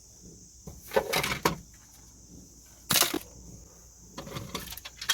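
Crickets chirping steadily in the background, with three short scuffing or rustling noises about one, three and four and a half seconds in, the middle one the loudest.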